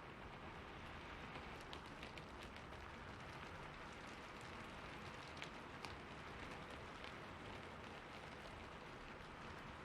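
Steady rain falling, an even hiss with scattered sharper ticks of drops.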